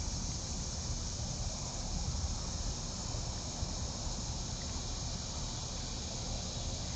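Steady outdoor background noise picked up by a trail camera's microphone: an even hiss with a faint, continuous insect chorus and no distinct events.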